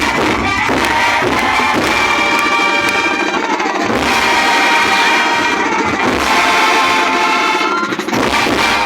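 Student marching band playing: held brass chords over drums and cymbals.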